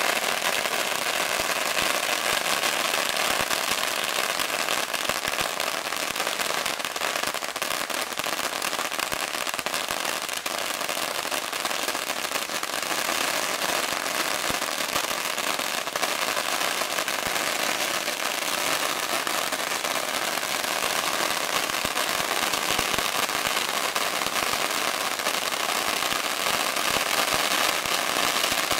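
A giant roll of firecrackers going off in a continuous, rapid crackle of countless small bangs, without a break.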